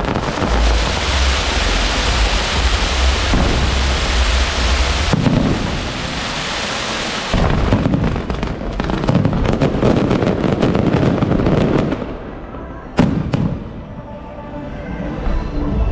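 Aerial fireworks: a dense, continuous barrage of bangs and crackling for about twelve seconds, then it thins out, with one sharp bang about thirteen seconds in.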